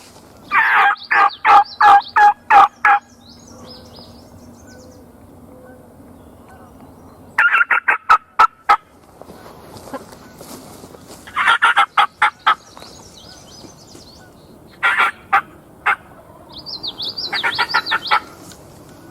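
Turkey calling: five bursts of loud, evenly spaced notes, about three a second, the last a quicker run that grows louder near the end.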